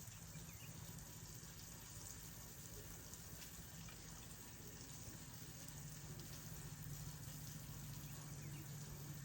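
Faint steady hiss with a low hum underneath, without distinct events.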